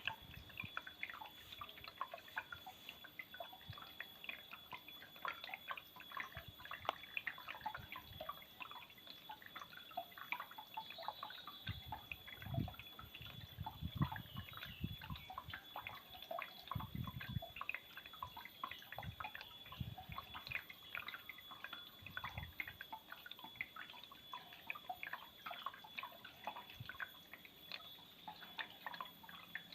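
Water dripping and trickling from a small homemade waterfall: many small, irregular drops and splashes, with a few soft low thumps near the middle.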